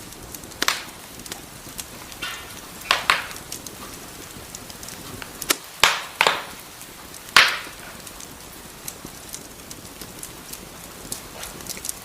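Wood fire crackling in a fireplace: a steady soft hiss of burning logs with frequent small ticks and five louder snapping pops, two of them close together about six seconds in.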